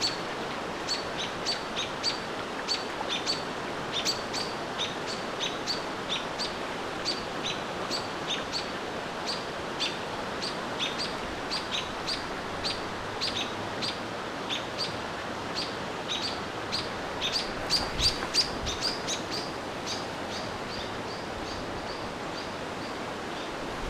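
Small songbirds giving repeated short, sharp chip calls, about two a second, coming faster for a couple of seconds late on, over a steady background hiss. These are the alarm calls of birds mobbing a barred owl.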